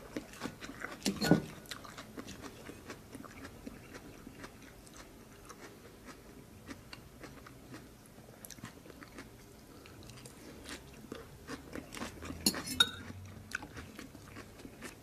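A person chewing and biting food close to the microphone, with small crunchy, wet clicks throughout and a couple of louder crunches or knocks about a second in and near the end.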